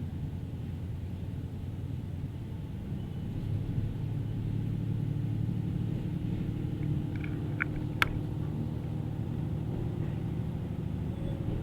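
Diesel local train running, its engine and wheels giving a steady low rumble that grows a little stronger about three and a half seconds in. A single sharp click comes about eight seconds in.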